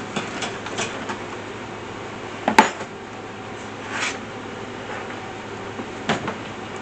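Metal parts of an Alaskan chainsaw mill clinking and knocking as it is fitted onto the chainsaw bar, with one sharp, louder clank about two and a half seconds in and lighter knocks after it.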